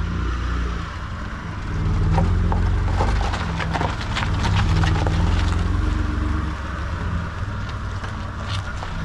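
A car engine running at low revs, a steady low rumble with a wavering note, with a run of clicks and knocks about two to five seconds in.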